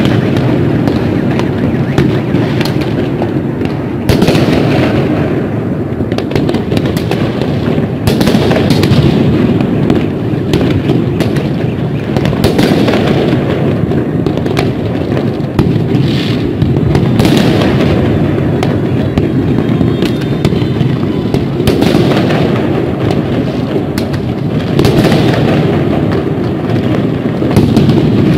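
Many fireworks going off at once: a continuous rumble of bangs and crackles, with louder volleys every few seconds.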